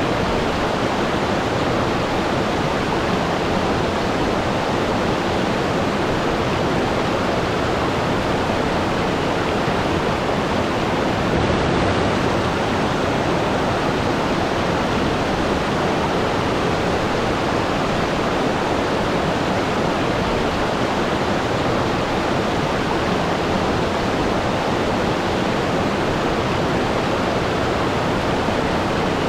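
Waterfall, a steady full rush of falling water with no breaks or changes.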